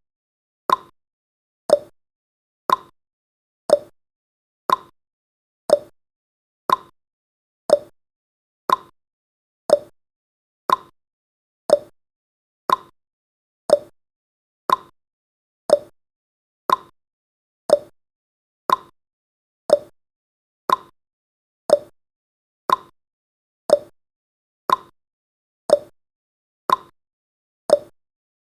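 Countdown timer's ticking sound effect: one short, sharp tick every second, perfectly regular.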